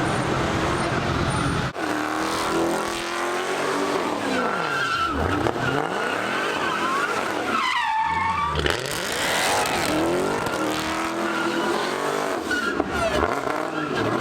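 A car engine revving hard at high revs, its pitch swooping up and down again and again, with tyres squealing as the car slides.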